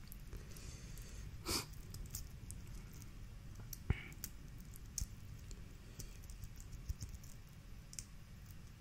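Crawfish shells being cracked and peeled by hand: faint scattered clicks and crackles, with a sharper crack just before four seconds in.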